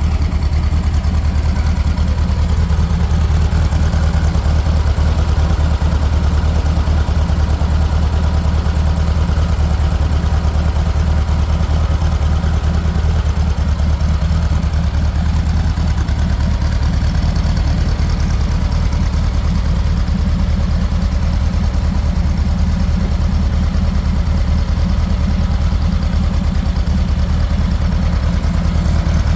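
VW Beetle's air-cooled 1835cc flat-four engine idling steadily after a tune-up, now running smoothly.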